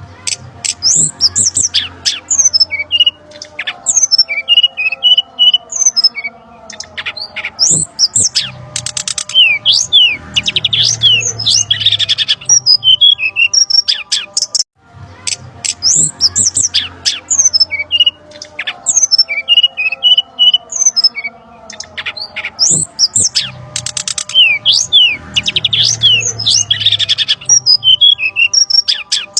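Brown-chested jungle flycatcher calls played as a looped bird-lure recording: a dense, busy run of quick high chirps and sharp falling whistles. The sequence breaks off briefly about halfway through and starts over.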